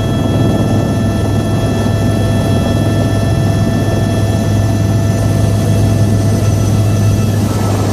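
Helicopter running in flight: a steady, loud low rotor drone with several steady high whining tones over it. Some of the whining tones shift briefly near the end.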